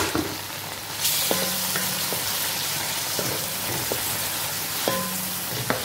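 Raw chicken pieces sizzling in hot oil with sautéed onion in a metal pan. The sizzle grows louder about a second in, and a wooden spatula stirring them knocks and scrapes against the pan now and then.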